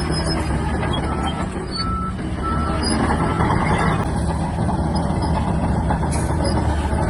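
Shantui DH17-C3 bulldozer's diesel engine running steadily at work. About a second in there are three short high reversing-alarm beeps.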